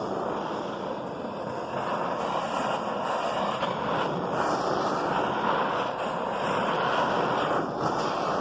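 Hand-held butane gas torch flame burning with a steady rushing hiss, a little louder from about two seconds in. It is still heating the aluminium up to the point where the Durafix rod will melt and flow.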